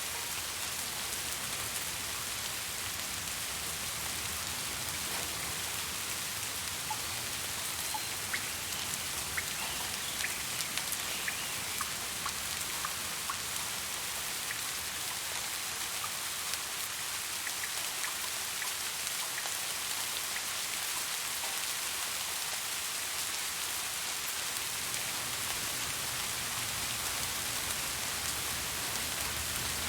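Steady rain falling, a continuous hiss, with individual raindrops ticking through it, most often a little past the first quarter.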